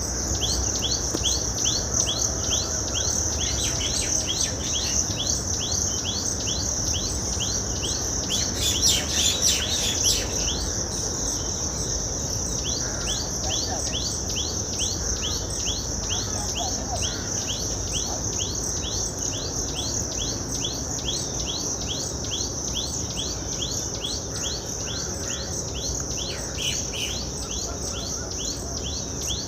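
Insects calling on and on: a steady high-pitched buzz with a fast, evenly repeated chirp beneath it. A bird calls briefly about nine seconds in.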